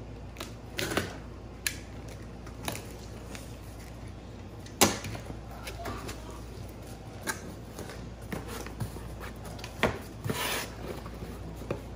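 Parts and packaging of a rabbit cage kit being handled while it is unpacked from its cardboard box: scattered knocks and clicks with short rustles, the sharpest knock about five seconds in.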